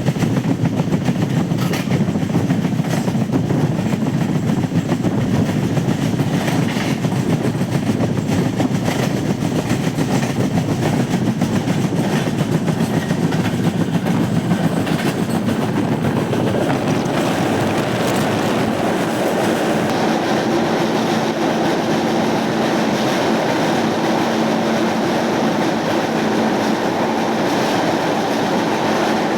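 Moving passenger train running on the rails: a steady rumble with the clickety-clack of wheels over rail joints, smoothing into a steadier hum with a held tone about halfway through.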